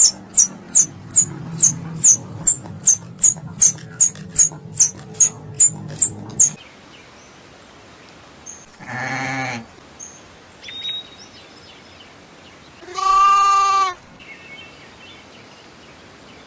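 A squirrel chattering: a quick run of short, high, falling chirps, about three a second, for some six seconds. Then a sheep bleats twice, each bleat about a second long.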